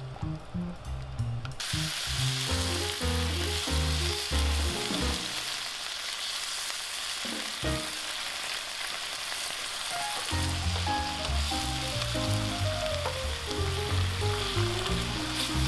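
Pork and komatsuna sizzling steadily in an oiled frying pan as the added pasta cooking water boils, starting about a second and a half in after a brief quieter moment. A light background tune plays in stretches over it.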